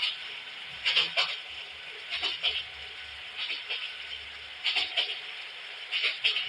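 Train wheels clacking over rail joints: pairs of short knocks repeating about every 1.2 seconds over a steady running rumble and hiss.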